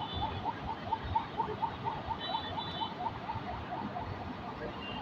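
Birds chirping: a quick, even run of short chirps, about four or five a second, with a few brief higher whistled notes about two seconds in and again near the end.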